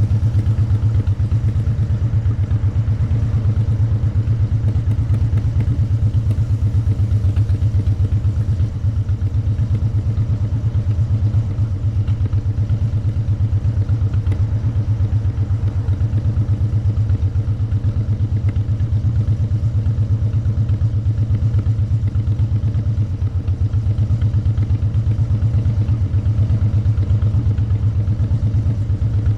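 Motorcycle engine and exhaust running at a steady pace: a low, evenly pulsing note that holds without revving up or down.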